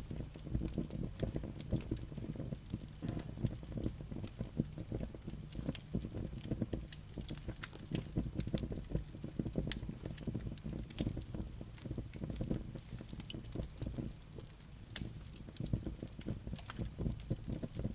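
Wood fire burning in a fireplace: a low steady rumble of the flames with frequent irregular crackles and pops from the burning logs and embers.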